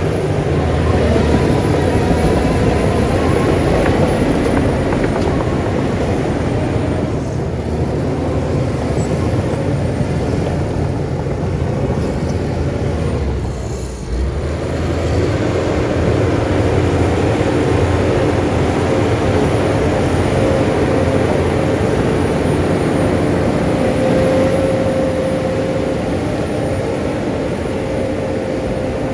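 Bulldozer's diesel engine running steadily under load while it works stone fill, dipping briefly about halfway through.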